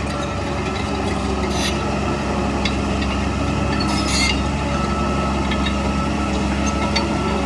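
Heavy earthmoving machinery's engine running steadily, with a few short metallic clinks and rattles, the clearest about one and a half and four seconds in.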